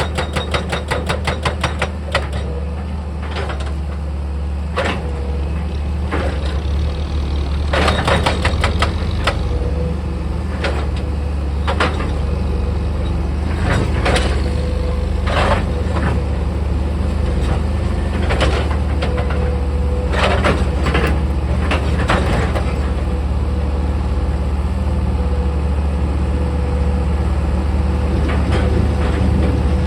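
Heavy diesel engine of earthmoving machinery running steadily, with scattered sharp clanks and knocks of steel and rock. A fast run of strikes comes in the first couple of seconds.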